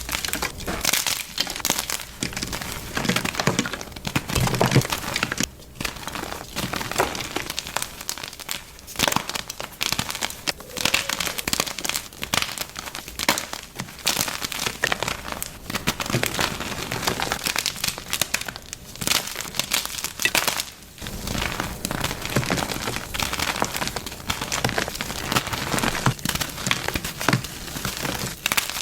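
Blocks of homemade gym chalk being crushed and crumbled, giving a dense, irregular run of crunching and crackling snaps.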